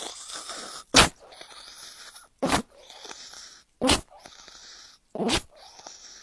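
A dog sneezing four times, short sharp bursts about a second and a half apart.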